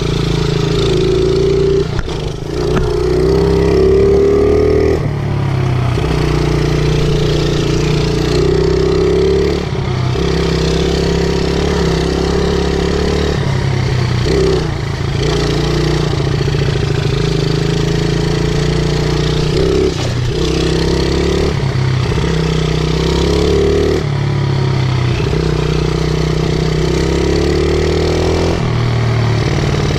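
50cc pit bike's small single-cylinder engine running while being ridden, its pitch rising and falling with the throttle and dipping briefly every few seconds, heard close from the rider's chest.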